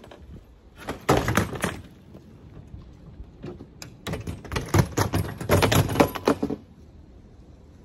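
Demolition work on an old pop-up camper: two spells of banging, knocking and clattering as parts are pried and torn loose, a short one about a second in and a longer one in the second half.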